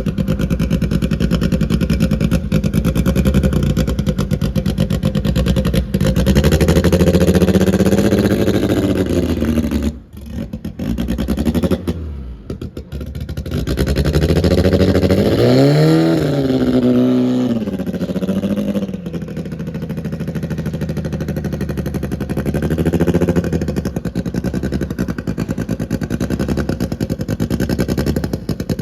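Car engine running at low speed, dropping off sharply about ten seconds in, then revving up and back down a few seconds later before settling back to a steady run.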